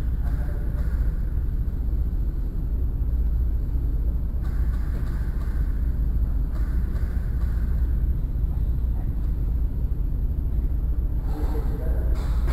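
A steady low rumble with an even haze of noise above it.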